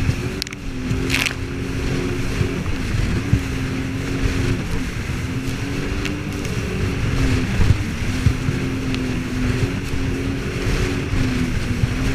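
Jet ski engine running steadily while underway, its pitch wavering slightly up and down over a low rumbling noise, with one short sharp noise about a second in.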